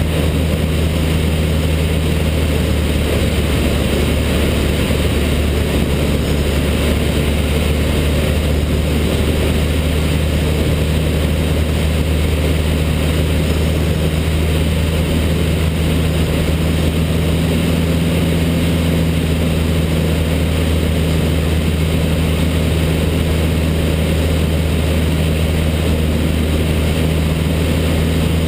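Cessna 152's Lycoming O-235 four-cylinder engine and propeller running at a steady, unchanging power setting, a constant low drone with an even rush of air noise over it.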